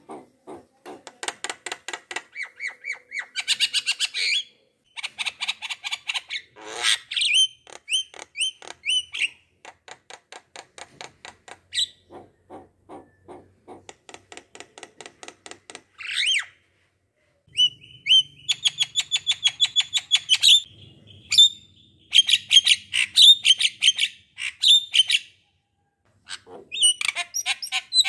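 Bird song: rapid trills and runs of high chirping notes in phrases, with short pauses between them.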